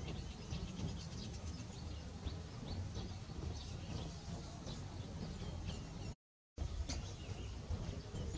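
Small birds chirping with short, scattered calls over a steady low outdoor rumble. The sound cuts out completely for a moment about six seconds in.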